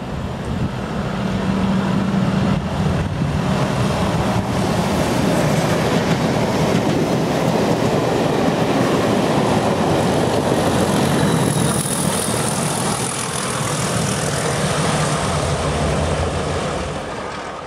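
Locomotive-hauled train passing close through a station at speed: an engine note as the locomotive draws level, then the steady rumble and clatter of wheels on the rails as the wagons go by. A thin high ringing joins about two-thirds of the way in, and the sound fades at the end as the train clears.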